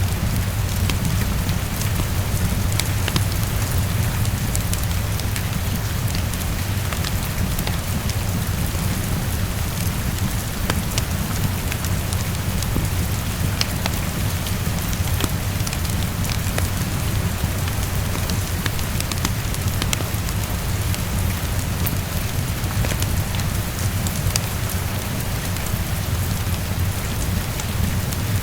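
Heavy rain falling against a window, a steady hiss over a constant low rumble. Sharp, scattered crackles of a wood fire sound through it.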